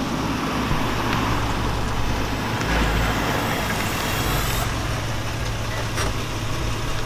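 Infiniti G35's V6 engine idling steadily through its stock-ish exhaust, with a low, even hum.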